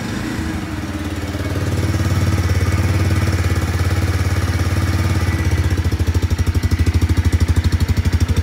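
Bajaj Freedom 125's 125 cc single-cylinder engine idling steadily, with an even, rapid exhaust pulse.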